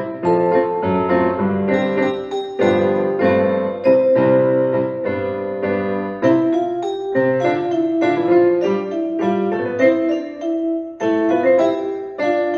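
Piano music: a simple melody over chords, notes struck one after another at a moderate pace.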